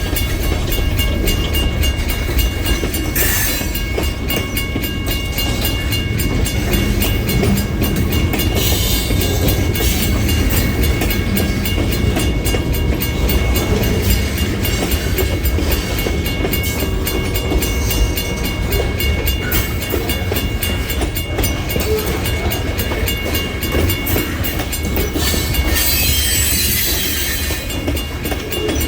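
Freight train rolling past with a steady low rumble, its wheels clacking over the rail joints, and a few short bursts of harsher wheel-and-rail noise.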